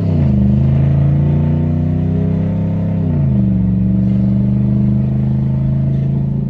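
Straight-piped 6.2-litre V8 of a 2013 Ford F-150 Raptor, with resonator and muffler deleted, running loud under way. The exhaust note drops in pitch at an upshift right at the start and again about three seconds in, then holds steady.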